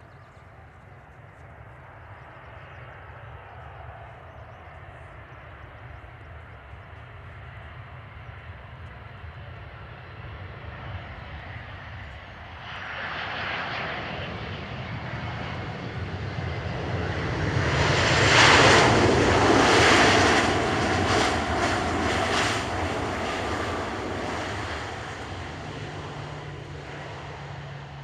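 Jet engines of a Boeing 737-800, CFM56-7B turbofans, growing louder as the airliner comes in to land, peaking with a fluttering rush of noise about two-thirds through, then fading away.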